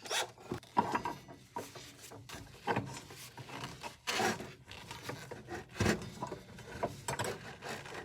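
Irregular knocks, clicks and scraping of hand tools against metal parts during disassembly of a miter saw.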